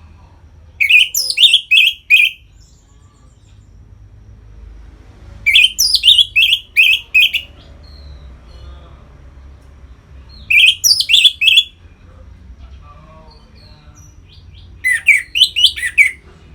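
Orange-headed thrush (Geokichla citrina) singing its loud 'ngeplong' song: four short phrases, each a quick run of four to six descending whistled notes, with pauses of about three seconds between them.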